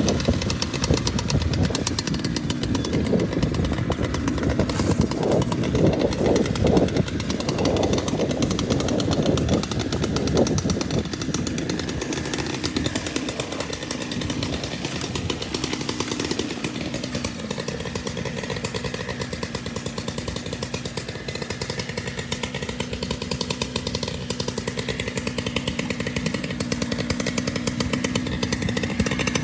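A small engine on construction machinery running steadily with a fast, even firing pulse. It is rougher and louder for the first dozen seconds, then settles to a steadier, even pitch.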